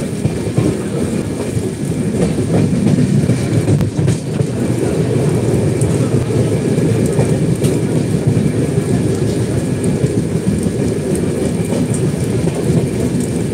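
Steady running rumble of a moving passenger train heard from aboard, wheels on rails, with a few faint clicks scattered through it.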